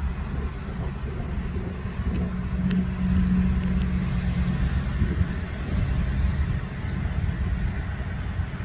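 A motor engine running with a low, steady rumble, its hum growing stronger for a second or so about three seconds in.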